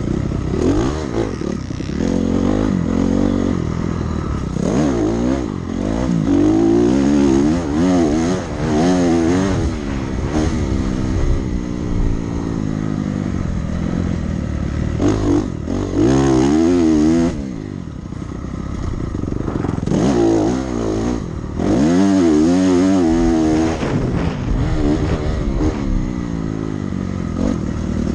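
Dirt bike engine on a motocross track, revving up and backing off again and again as the throttle is worked. The pitch climbs and drops every few seconds, with a short lull a little past halfway.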